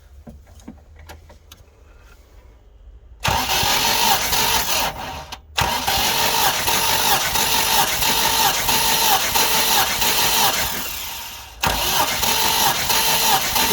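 UMZ-4216 four-cylinder engine being turned over by its starter motor during a compression test, cranking without firing with a regular pulse as the cylinders come up on compression. The cranking starts about three seconds in and runs in three spells with two short breaks.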